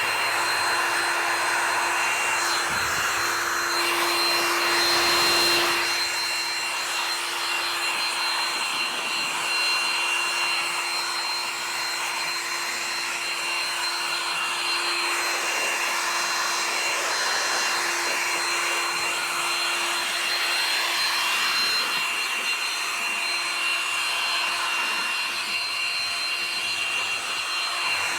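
A small electric motor tool running steadily: a high whine over a rushing hiss, slightly louder for a couple of seconds near the start.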